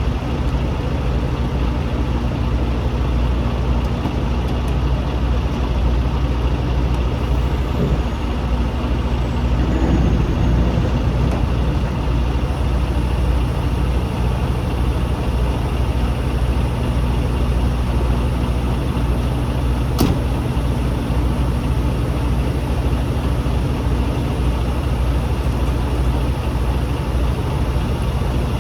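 Semi-truck's diesel engine idling steadily, with one sharp click about twenty seconds in.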